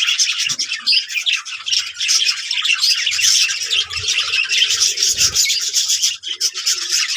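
A flock of budgerigars chattering and squawking, with many short calls overlapping without a break.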